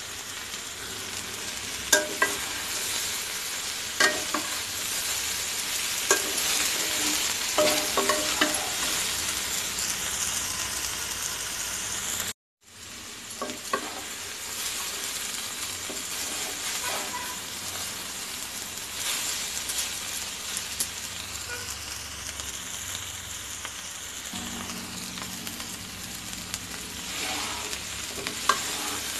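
Potato, cauliflower and green bean masala fry sizzling in a kadai over high heat, with a steady hiss, while a steel spatula scrapes and now and then knocks sharply against the pan as it is stirred.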